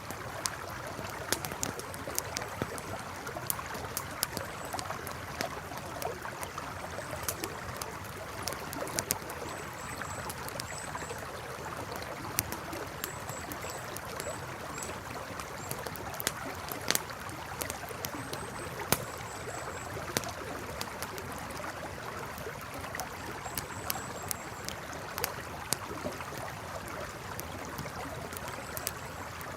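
Campfire crackling, with sharp pops scattered irregularly over the steady rush of a flowing river. Faint high chirps come in small groups now and then.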